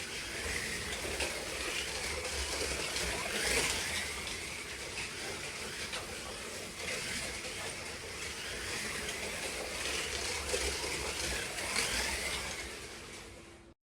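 Electric slot car motors whining as the Group 5 cars lap the track, swelling and falling as they come past about every three to four seconds. The sound fades and cuts off abruptly near the end.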